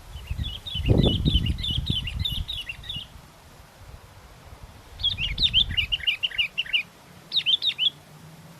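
Small songbird chattering in three bursts of rapid, high twittering notes: a long run, a second about five seconds in, and a short one near the end. Wind buffets the microphone with a low rumble under the first two bursts.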